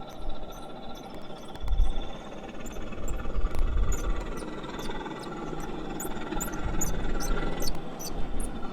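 Wind buffeting the microphone in gusts, over a faint steady hum, with a run of sharp ticks through the middle and later part.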